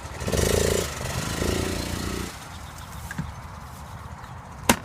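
150cc pit bike engine revving in two short blips, then settling back; a single sharp knock near the end.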